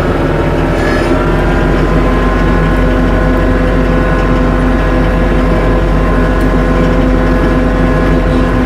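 Tractor engine running steadily at a constant speed, a continuous hum of several pitches over a low rumble.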